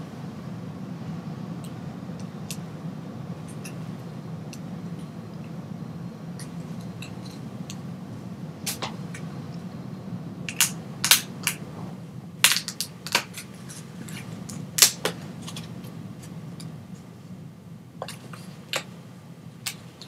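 Steady low rumble of a moving GO Transit commuter train, heard from inside the passenger car. A scattering of sharp clicks cuts through it, bunched from about halfway through and loudest there.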